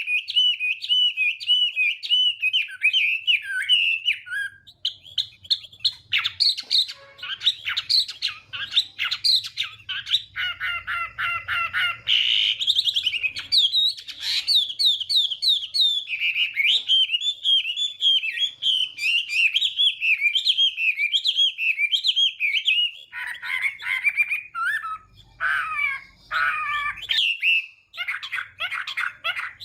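Chinese hwamei singing a long, varied song of rapid whistled and warbled phrases, with short breaks between phrases.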